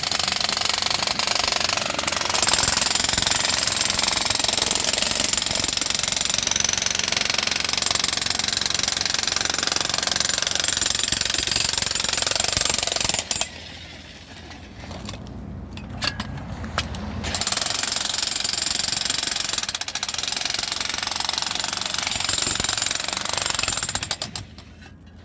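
Jackhammer hammering rapidly and continuously, breaking concrete. It stops about halfway through, leaving a quieter stretch for several seconds, then starts up again and runs until just before the end.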